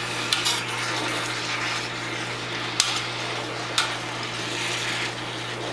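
Chicken and vegetables frying in a skillet with a steady sizzle while being stirred, the utensils clicking sharply against the pan a few times, about a third of a second in and again near three and four seconds.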